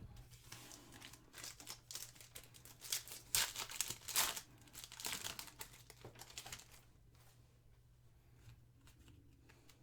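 Foil wrapper of a 2023 Panini Donruss football card pack being torn open and crinkled, in a run of crackles that is loudest about three to four seconds in and dies away to faint handling after about seven seconds.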